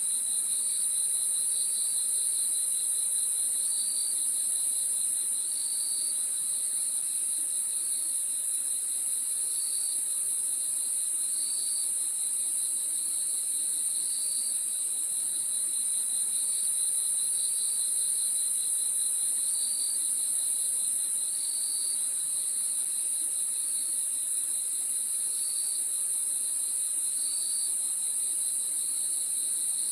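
Crickets chirping at night: a continuous high trill over a lower, fast-pulsing chirp that swells every second or two.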